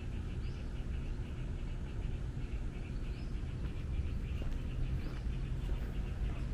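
Outdoor park ambience: a steady low hum of city traffic under a rapid, even chirping that goes on throughout, with a few short bird chirps over it.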